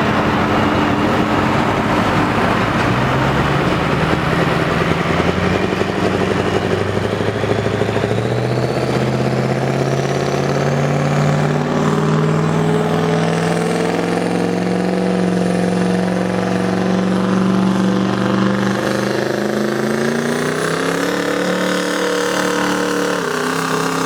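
Chevrolet Duramax turbodiesel V8 pickup pulling the sled down the track. The engine starts off easy, then climbs steadily in revs through the long pull and drops off near the end.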